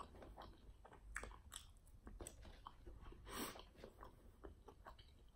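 Faint close-miked eating sounds: a person chewing fried chicken wings, with crunching bites and wet mouth smacks in a quick, uneven string of short clicks, and one longer, louder noisy sound a little past halfway.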